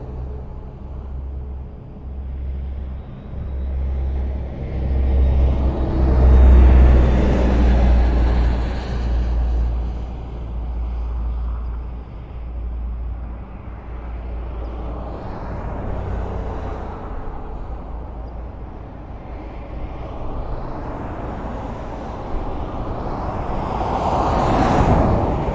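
Highway traffic: a steady low rumble of tyres and engines, with vehicles passing close, swelling loudest about six seconds in and again with a sharp pass near the end.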